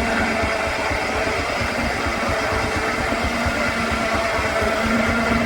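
Sawmill machinery running steadily, with a fast, even low pulsing and a steady hum.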